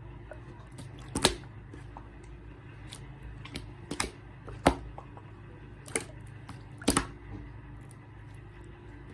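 Clear slime being pressed and stretched by hand, giving sharp clicking pops at irregular intervals, about half a dozen in all, over a faint low hum.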